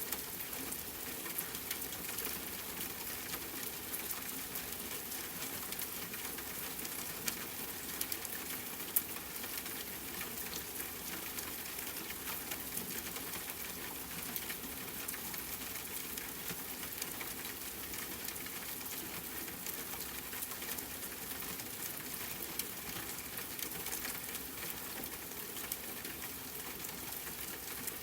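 Steady rain with fine pattering drops, a few drops standing out a little louder.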